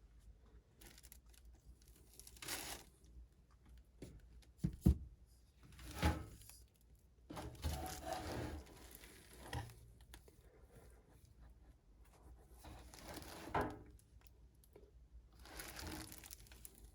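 Handling noise as a small motorcycle engine (a Daelim Honda Citi100 100cc) is laid over on its side on the workbench: crinkling and rustling, with several knocks, the sharpest about five seconds in.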